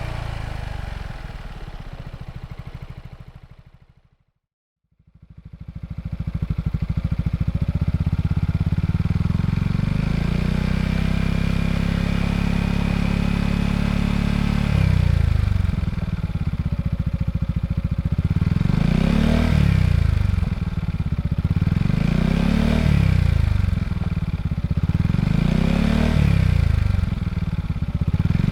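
Yamaha XMAX scooter's single-cylinder engine through a Yoshimura Cyclone exhaust. The first sound fades out and there is a brief silence. The engine then idles steadily, and from about halfway it is revved in a run of short blips, each rising and falling, every two seconds or so.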